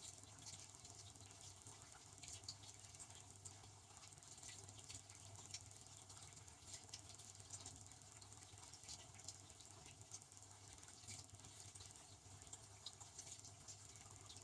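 Faint sound of a Devanti benchtop dishwasher running: a steady low hum with many small, irregular ticks scattered over it.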